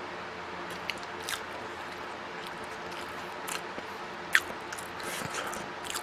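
Eating sounds: chewing with a few short, sharp mouth clicks, the sharpest a little past the middle, over a faint steady hum.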